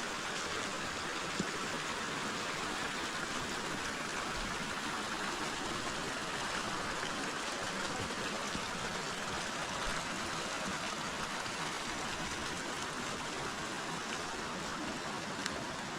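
River water flowing in a steady, even rush, with a couple of faint clicks near the start and near the end.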